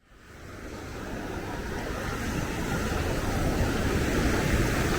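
Steady wash of ocean surf mixed with wind noise on the microphone, fading in over the first second or so.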